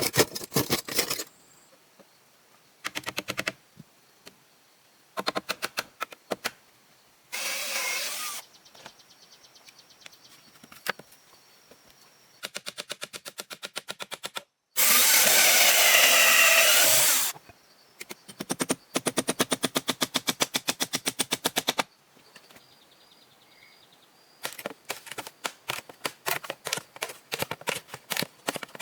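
Building-work sounds cut together in short clips: runs of rapid, evenly spaced strikes at about ten a second, with two louder bursts of harsh, rasping noise lasting a second or more, and quiet gaps between them.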